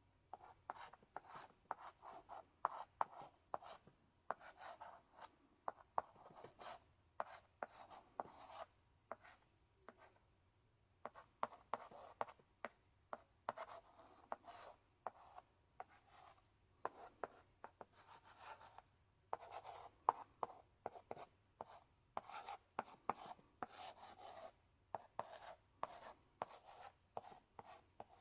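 Chalk in a chalk holder writing on a blackboard: short scratching strokes punctuated by sharp taps as the chalk strikes the board, with a brief pause about ten seconds in.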